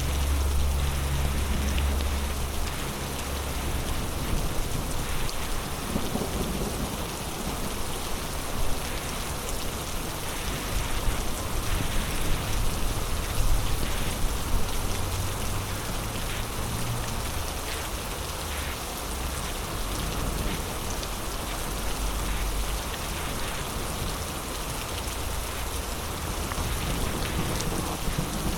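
Heavy rain falling steadily, with a low rumble of thunder in the first couple of seconds and again faintly about two-thirds of the way in. A few sharper drop hits stand out in the middle.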